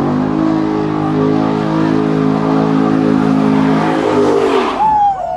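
Car engine held at steady high revs, like an engine pinned against its rev limit at a takeover. Near the end the revving drops away, and a high tone begins that slides steadily downward.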